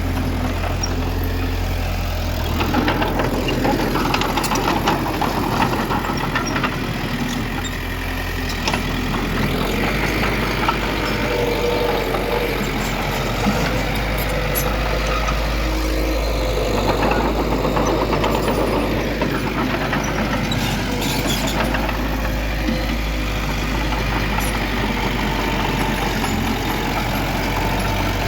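Diesel engines of earthmoving machinery, a bulldozer and dump truck, running and working under changing load, with occasional short knocks.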